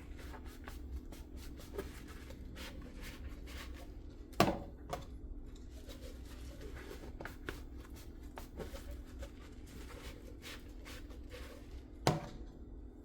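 Dishes and utensils being handled at a kitchen sink: a run of light clicks and taps, with two sharper knocks about four seconds in and near the end, over a steady low hum.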